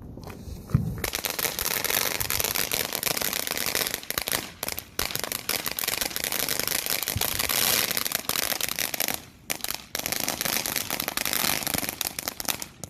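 Consumer firework crackling: a dense, rapid run of sharp pops that starts with a thump about a second in and goes on for about eleven seconds, with a few brief breaks.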